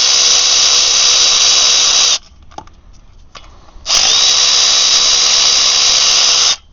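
Cordless impact wrench spinning off the flywheel-to-crankshaft bolts. It runs in two steady bursts of about two and a half seconds each, with a short pause between them.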